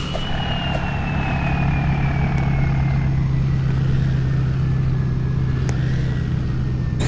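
Truck driving on the road: a steady low engine drone with a thin high whine that slowly falls in pitch.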